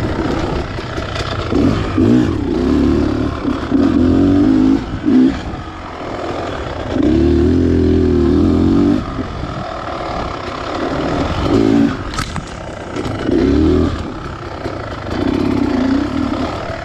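Beta Xtrainer 300 two-stroke dirt bike engine revving in repeated bursts as the throttle is opened and closed, with the longest pull about halfway through. A single sharp click about twelve seconds in.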